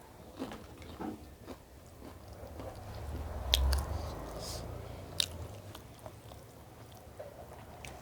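A person eating close to the microphone: chewing and biting, with several sharp, crisp crunches scattered through the chewing.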